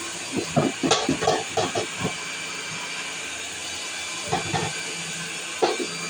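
Vacuum cleaner running with a steady rushing hiss, with clusters of short, louder knocks or bumps over it, about half a second in and again near the end.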